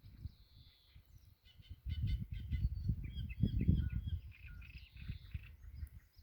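Small songbirds chirping and trilling, with a louder, irregular low rumble over the microphone from about two seconds in.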